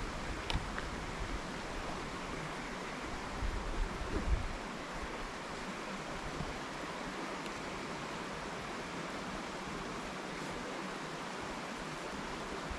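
River water running steadily, with a brief low rumble about three to four seconds in.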